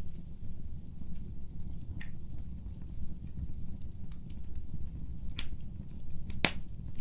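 Fireplace fire crackling: a steady low rumble of flames with scattered sharp pops and snaps, the loudest near the end.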